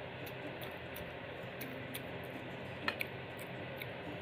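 A person eating with their hands: chewing, with small wet mouth clicks every fraction of a second over a steady hiss, and two sharper clicks close together about three seconds in.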